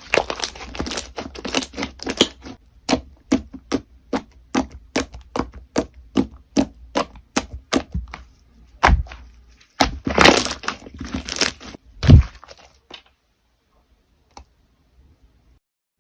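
Crunchy slime being pressed and squeezed, giving a run of sharp crackling clicks about three a second, with a louder crack near the end before the sounds stop.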